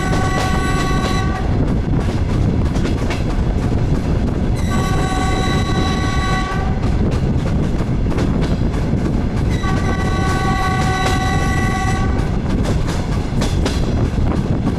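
Diesel railcar horn sounding three long blasts about five seconds apart, each a chord of several steady tones, over the steady rumble of the DR1A train running. Near the end the wheels clatter over rail joints.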